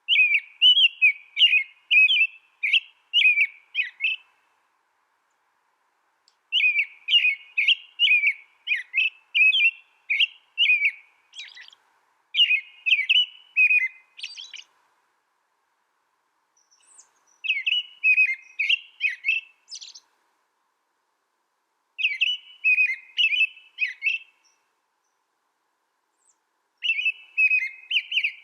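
A small songbird singing in bouts of quick, high chirping notes, each bout a few seconds long, with short silent pauses between; six bouts in all.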